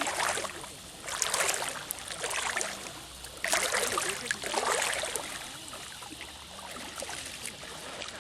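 Water splashing and sloshing in surges, swelling twice in the first five seconds and then settling to a lower wash.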